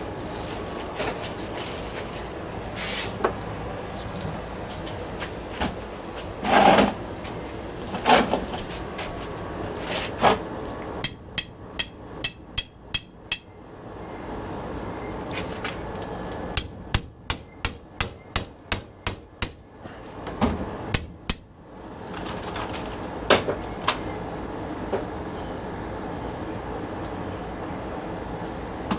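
Hammer blows on the metal of a ceiling fan motor being broken down for its copper: scattered knocks, then two quick runs of sharp, ringing strikes of about three a second, one run of about seven and one of about ten.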